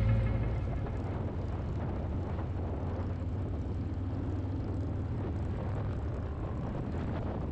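Motorcycle riding on the road: a steady engine drone under even wind noise, with music fading out at the very start.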